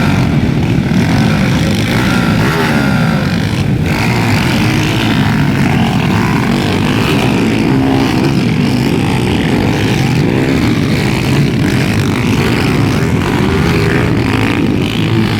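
Several underbone motorcycles racing on a motocross track, their small engines revving up and down and overlapping without a break.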